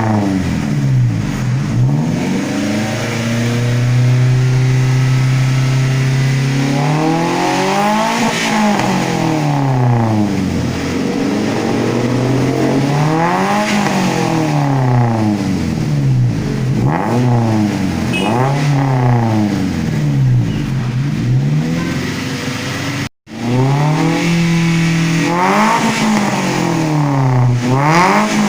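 Toyota Avanza's four-cylinder engine revved again and again through an aftermarket exhaust with a 4-into-1 header and racing muffler, the pitch climbing and falling with each blip and once held high for a few seconds. The sound cuts out for an instant about three-quarters of the way through.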